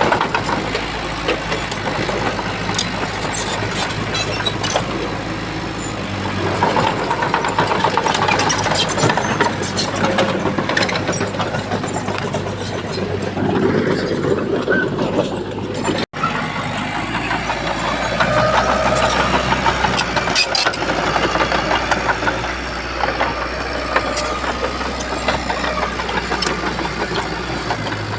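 Heavy diesel earthmoving machinery running under varying load, with scattered metallic clanks. The sound drops out for an instant about halfway through.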